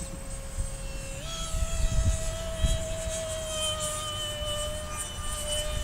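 Radio-controlled model plane's motor whining in flight, its pitch stepping up about a second in and then slowly sinking, with gusty wind buffeting the microphone.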